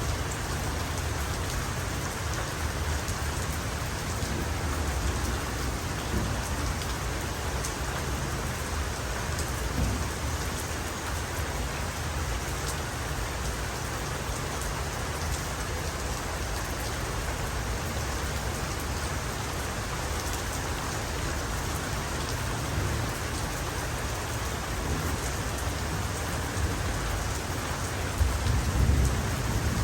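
Heavy rain falling steadily, with fine pattering drops over a low rumble. A roll of thunder swells near the end.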